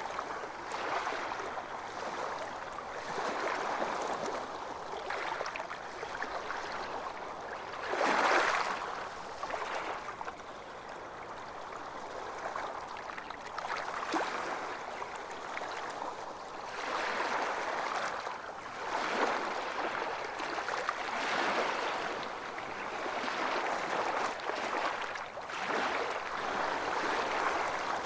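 Sea waves breaking and washing up on a beach, each surge swelling and ebbing every few seconds, the strongest about 8 seconds in.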